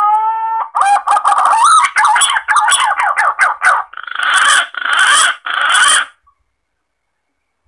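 Green pigeon (punai) calls played as a hunter's lure call. A rising whistled note is followed by a run of quick warbling notes, then three longer, rougher notes, ending about six seconds in.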